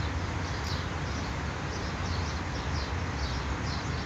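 A bird chirping in short, repeated notes over a steady background hiss and low hum.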